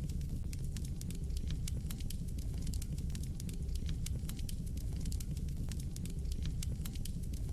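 Fire in a fireplace crackling: many small irregular crackles and pops over a steady low rumble of the flames.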